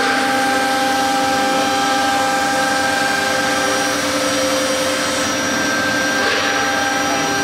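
The 3.5 kW air-cooled spindle of a CNC router running at steady speed while cutting fiber board: a steady, multi-toned whine over a constant hiss of cutting.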